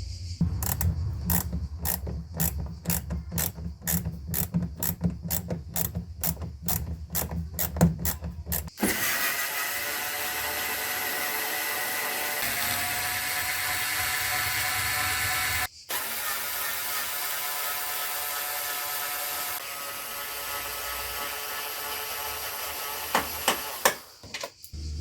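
Hand ratchet wrench clicking evenly, about twice a second, for the first nine seconds. It then gives way abruptly to a steady whirring hiss that carries on, broken once briefly, until near the end.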